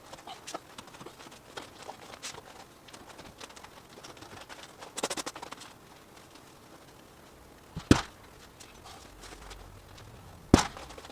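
Scattered light clicks and handling noise, a quick rattle of rapid clicks about five seconds in, and two sharp knocks, one about eight seconds in and a louder one near the end.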